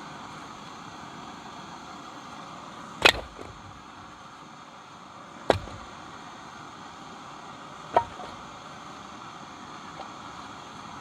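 Three sharp chopping strikes about two and a half seconds apart, the first the loudest: an axe or hatchet splitting firewood, over a steady hiss of wind.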